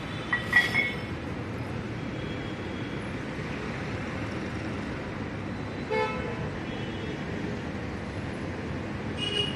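Steady background traffic noise with short vehicle horn toots: one just after the start, one about 6 seconds in and one near the end.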